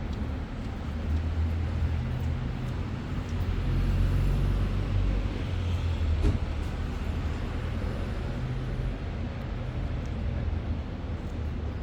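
Low, steady rumble inside the cabin of a BYD BD11 battery-electric bus, the road noise and running gear of the bus on the move. One short knock comes about six seconds in.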